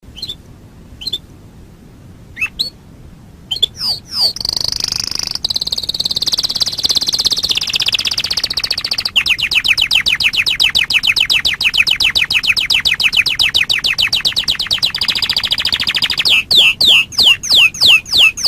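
Domestic canary singing: a few scattered chirps, then a long, fast rolling trill. Near the end the song breaks into louder, slower repeated downward-sweeping notes, about four or five a second.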